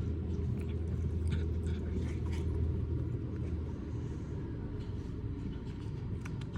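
Cat chewing a pork rib, with faint crunching clicks every so often over a steady low rumble.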